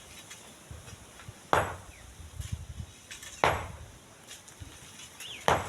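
Three sharp knocks, evenly spaced about two seconds apart, each fading away quickly, like a hand tool striking rock.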